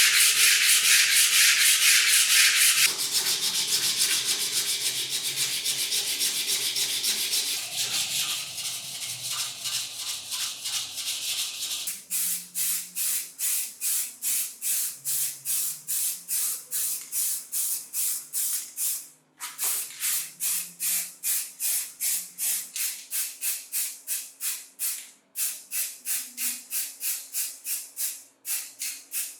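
Steady hiss of abrasive sandblasting on the grinder's metal parts for about the first twelve seconds, then rhythmic rubbing strokes on metal, about three a second.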